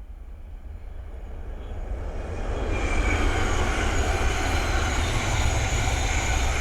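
Thameslink Class 700 electric multiple unit approaching and passing: the sound swells over about three seconds, then holds as a steady loud rumble and rush of wheels on rail, with thin high ringing tones above it.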